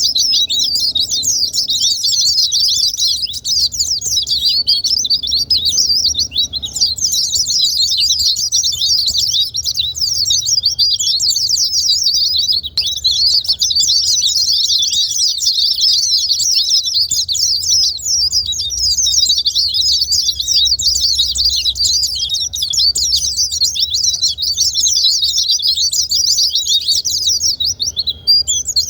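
White-eyes (pleci) singing a fast, unbroken stream of high, twittering chirps.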